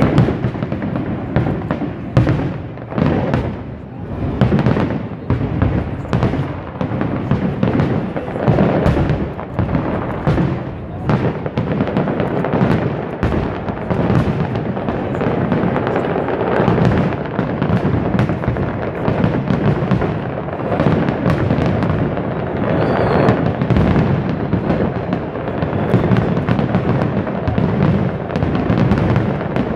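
Fireworks exploding in a dense, unbroken barrage, bang after bang overlapping with no pause.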